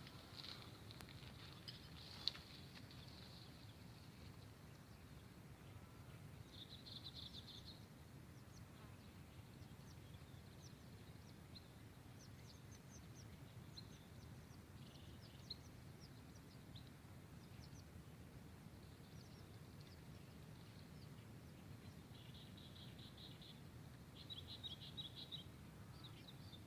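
Faint open-air ambience with small birds chirping and giving short, rapid trills now and then, over a low steady background hiss. A single sharp click stands out about two seconds in.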